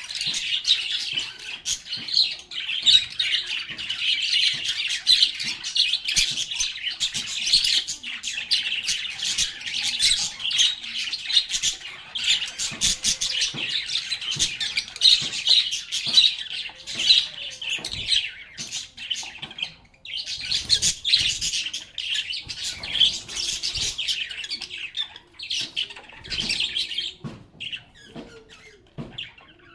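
Several lovebirds chirping and chattering busily, a dense run of rapid high calls with hardly a pause. The calls break off briefly about two-thirds of the way through and thin out near the end.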